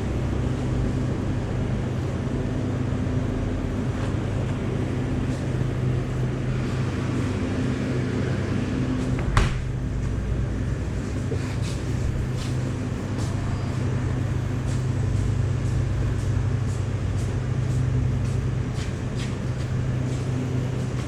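Yamaha YZF-R6 inline-four running at a steady idle through an SC-Project SC1-R exhaust, with one short sharp click about nine seconds in.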